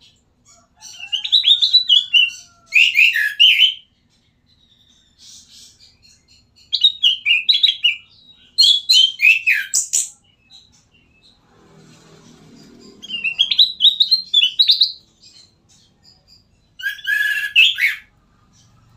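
Kutilang emas, a bulbul, singing in four short bursts of quick, clear chirping notes that fall in pitch, with brief pauses between the phrases.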